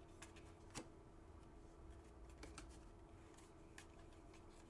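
Near silence, with a few faint, sharp clicks and rustles of trading cards being handled and flipped.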